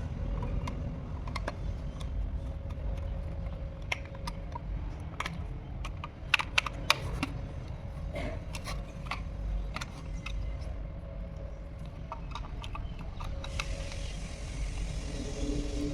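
Irregular small clicks and taps, as of small hard objects being handled, over a steady low rumble, with a short cluster of sharper clicks about six to seven seconds in and a hiss coming in near the end.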